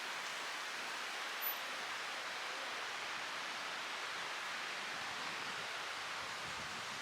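Steady, even hiss of outdoor background noise with no distinct events, apart from a faint brief tick about one and a half seconds in.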